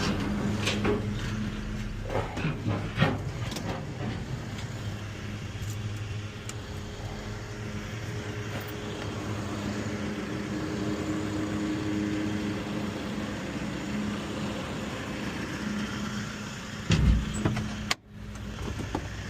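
A motor vehicle running steadily, with engine hum and road noise, a few sharp knocks in the first few seconds and a louder knock near the end, followed by a brief sudden drop-out.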